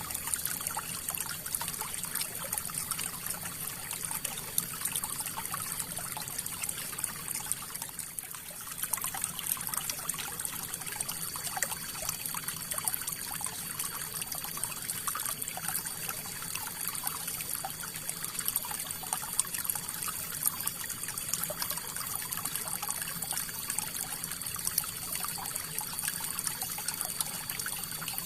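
River water flowing, a steady rush full of small trickling splashes.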